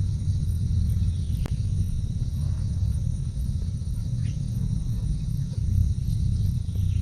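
Crickets and other insects chirping steadily in a high, even drone, over a loud low rumble. A few brief falling squeaks are heard, one about a second and a half in and one past four seconds.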